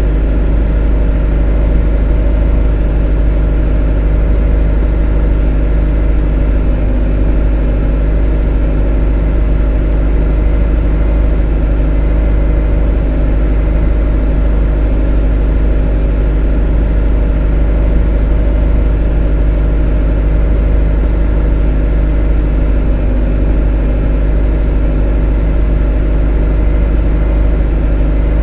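A motor running at a steady speed: a continuous, unchanging low drone with a steady hum over it.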